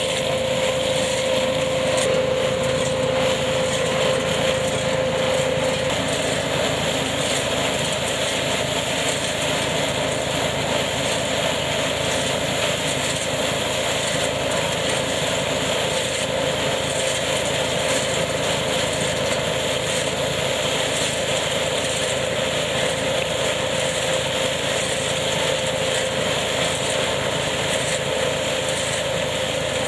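Tractor-driven hazelnut harvesting machine running steadily, the tractor engine and machine together making a constant mechanical noise. A steady whine sits over it and changes slightly about six seconds in.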